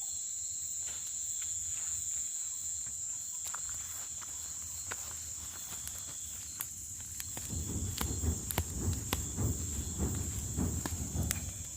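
Crickets trilling steadily and high, with scattered sharp clicks. From about seven seconds in there is a low, uneven rustling rumble.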